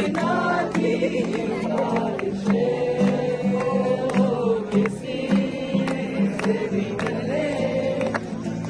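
Several voices singing a slow Hindi song together, holding long notes, over a steady beat of sharp strokes.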